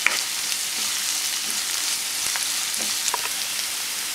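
Chopped onions and ginger-garlic paste sizzling in hot oil in a non-stick frying pan, a steady frying hiss, with a few clicks of a spatula stirring against the pan.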